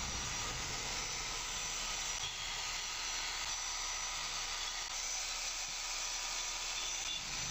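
Steady faint hiss of background noise, with no distinct events.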